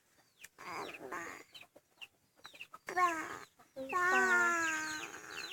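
Chicks peeping over and over, each peep a short high falling chirp. A young child's voice holds two long, slightly falling notes, about three seconds in and again about a second later; the second is the loudest sound.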